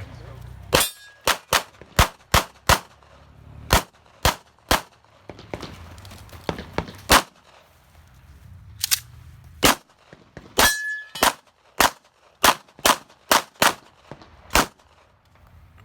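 Semi-automatic pistol fired in rapid strings during a timed practical-shooting stage: about nine quick shots in the first five seconds, two more after a pause, then another fast string of about nine near the end. A brief ringing note follows two of the shots.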